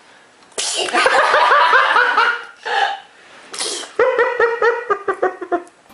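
Laughter: two long bouts of quick repeated ha-ha pulses, the first starting about half a second in and the second about four seconds in, with short bursts between them.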